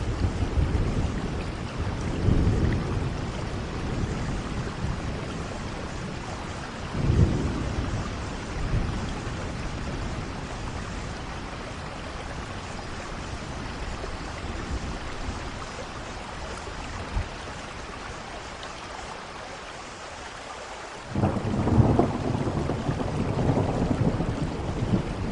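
Steady rain falling, with rolls of thunder rumbling low. The rumbles swell near the start and again about seven seconds in, then ease off, and a sudden louder peal of thunder breaks out near the end.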